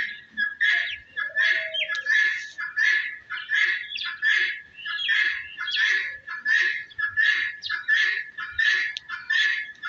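Birds calling: a steady run of harsh calls, about two a second, over a constant high tone.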